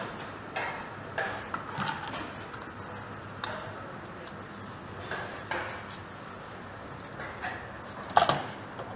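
Workshop clatter of metal tools and parts on a motorcycle being serviced: scattered clicks and knocks, with a sharp louder knock near the end.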